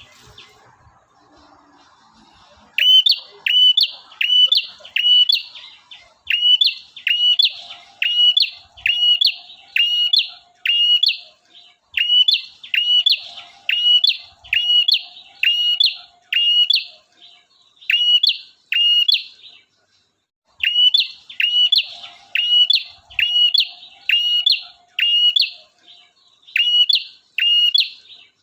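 Male prenjak (prinia) singing: a fast string of sharp, high, identical notes, about two a second, starting about three seconds in and running on with one short break about two-thirds of the way through.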